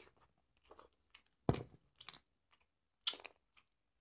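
A person chewing king crab meat: a few short, separate mouth sounds of chewing and light crunching, the loudest about a second and a half in and another just after three seconds.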